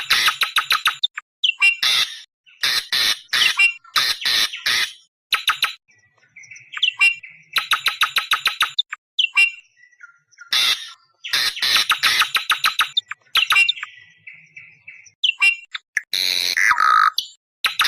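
Awar-awar bird calling: repeated bursts of rapid, harsh chattering notes, each burst about half a second to a second long with short pauses between. Near the end comes a buzzier call with a falling note.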